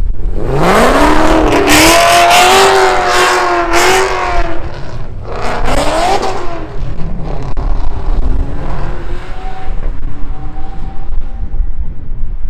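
A car accelerating hard away: the engine note climbs steeply and is held high for about four seconds, drops briefly, climbs again about five and a half seconds in, then settles to a lower, quieter drone.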